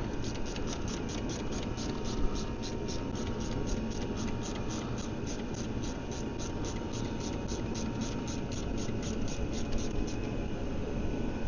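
Socket ratchet clicking at an even pace of about four clicks a second as a bolt is wound out; the clicking stops about ten seconds in.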